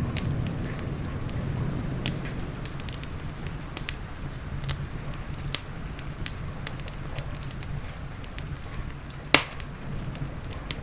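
Wood fire crackling with irregular sharp pops over a steady low rumble, and one loud pop about nine seconds in.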